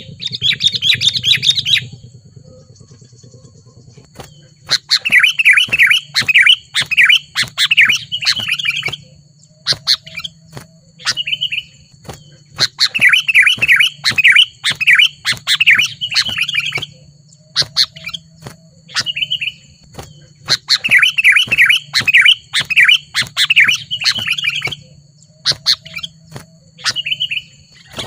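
Sooty-headed bulbul singing loudly in bursts of a few seconds of fast, chattering notes, with short phrases between the bursts. A steady low hum runs underneath.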